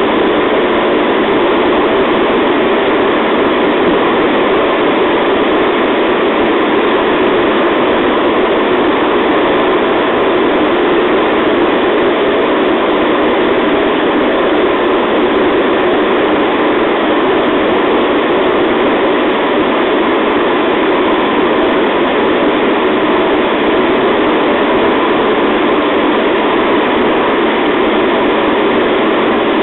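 JR East 211 series electric train running at a steady speed, heard from inside the car as a loud, even rumble with no clicks or changes.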